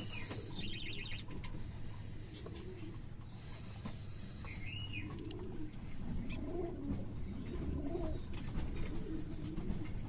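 Birds calling: low calls that rise and fall, repeated mostly in the second half, with a few short high chirps and two brief bursts of hiss near the start.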